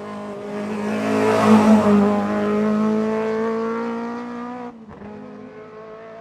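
Hillclimb race car running at high revs as it passes, loudest about a second and a half in and then fading away, with a brief break in the engine note just before five seconds.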